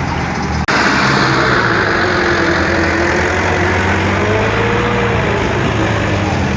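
Engine idling steadily. About a second in the sound cuts out for an instant, then returns slightly louder.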